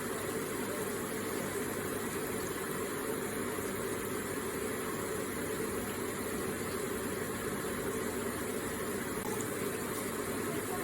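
Water from an electric water feature trickling and splashing steadily, an even, unchanging rush of water.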